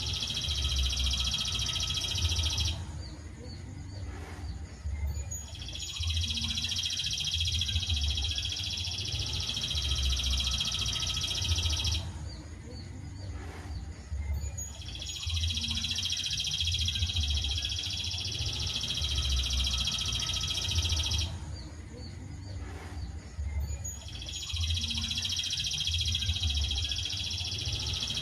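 Recorded songbird masteran: a high, dense, unbroken trill held for about six seconds at a time, with three pauses of about three seconds, in a repeating loop. A low hum runs underneath.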